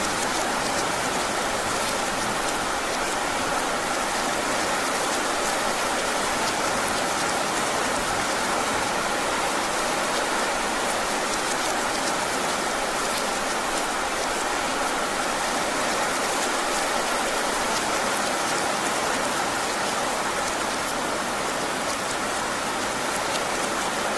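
Heavy rain falling steadily: an even, dense hiss with scattered fine drop impacts.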